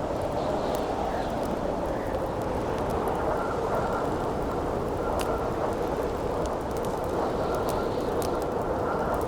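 Steady howling wind with a faint whistling tone that comes and goes, over a campfire crackling with scattered sharp pops.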